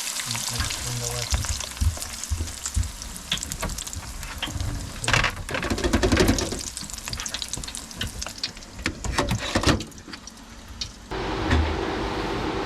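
Chips deep-frying in hot oil in a deep fryer basket, a steady crackling sizzle and bubbling with lots of small pops. About eleven seconds in it cuts off suddenly, giving way to a steady hum.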